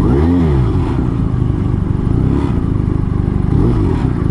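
Motorcycle engine running under way, its pitch rising and falling as the rider blips the throttle, once near the start and again near the end.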